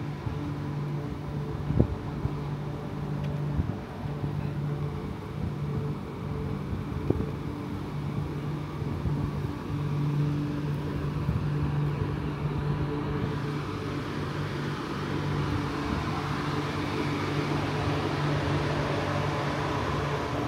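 Steady mechanical hum from the parked passenger train's carriages, a low drone that fades in and out, with a few faint knocks.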